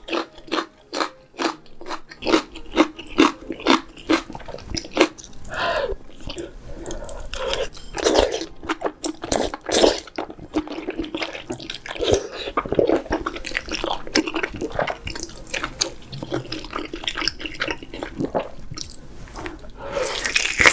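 Close-miked eating sounds: crunchy bites and chewing, with a quick run of sharp crunches in the first few seconds.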